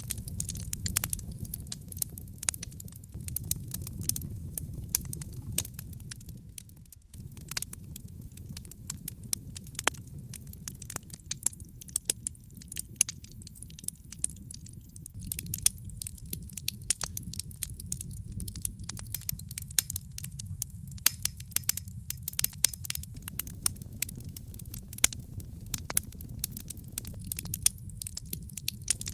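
Wood fire burning in a fireplace, crackling with many sharp, irregular pops and snaps over a steady low rumble of the flames. The rumble dips briefly about seven seconds in.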